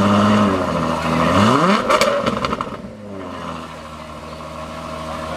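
Ferrari 12Cilindri Spider's 6.5-litre naturally aspirated V12 running, blipped sharply once about a second and a half in, crackling as the revs fall back, then settling to a steady idle.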